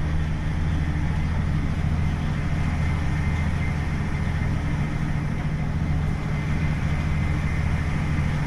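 KiHa 40 series diesel railcar's DMF15HSA six-cylinder diesel engine running with a steady low drone, over the noise of the car in motion.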